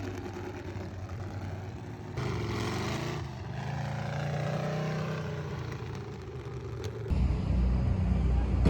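Motor vehicle engine running steadily, with abrupt changes about two seconds in and again near the end, where a louder low rumble takes over.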